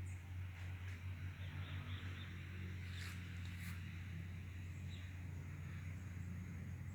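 Faint, short chirps of small birds gathered at a feeding spot, with a couple of brief clicks and a steady low hum underneath.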